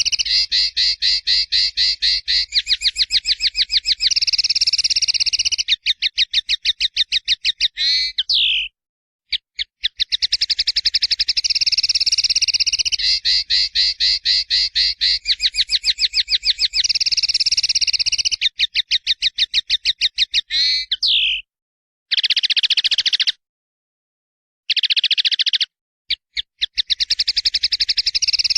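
A captive songbird singing long phrases of rapid, evenly repeated high notes and trills. The phrases are broken by a few sudden dead silences where the recording is cut.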